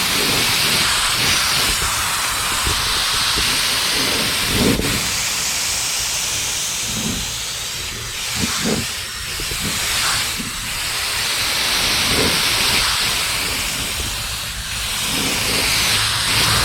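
Paint being sprayed: a loud, steady hiss of spray that swells and fades with each pass.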